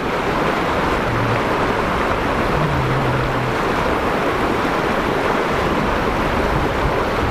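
Fast-flowing mountain river rushing over its bed, a loud steady roar of water.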